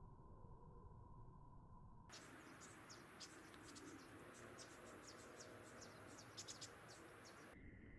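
Faint outdoor ambience of crickets trilling: a steady high trill with many quick, high chirps over it. It starts abruptly about two seconds in and cuts off abruptly shortly before the end, leaving a muffled low hum with a faint steady tone.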